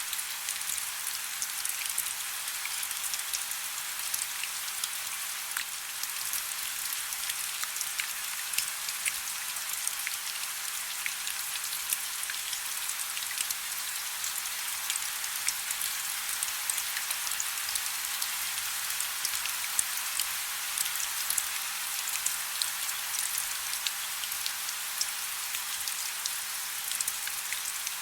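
Soft steady rain: a continuous hiss of rainfall with many small scattered drop ticks.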